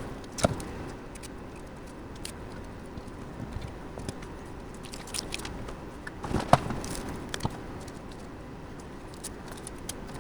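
Scattered light clicks, taps and scrapes of computer parts being handled and fitted, over a steady low background hum, with one louder knock about six and a half seconds in.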